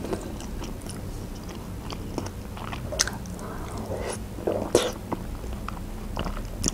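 Close-up chewing of soft fried vegetables, with wet mouth clicks and a few sharper clicks, two of them standing out about three and five seconds in.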